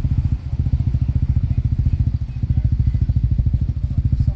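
An engine running with a steady, rapid low throb.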